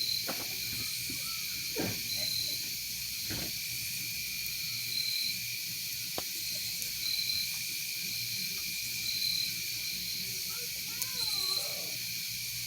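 Night insects trilling steadily, with a short high chirp repeating about every two seconds, over a campfire crackling with a few sharp pops.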